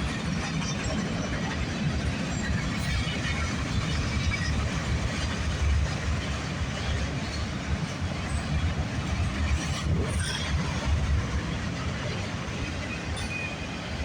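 Freight cars of a long CPKC freight train rolling past on the track, a steady rumble of steel wheels on rails.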